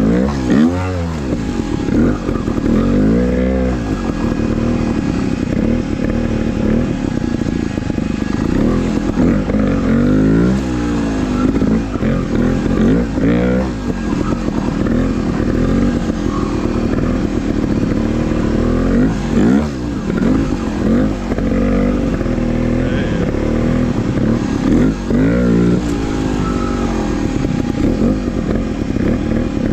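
Trials dirt bike engine revving up and down in repeated short throttle blips, the pitch rising and falling every few seconds as the bike is ridden over terrain.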